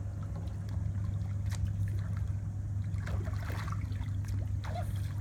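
Paddle dipping and water trickling around a small paddled boat, over a steady low hum.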